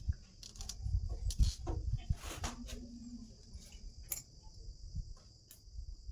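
Scattered sharp clicks and knocks of hand-worked parts and tools over a steady, high-pitched chirring of insects that never lets up.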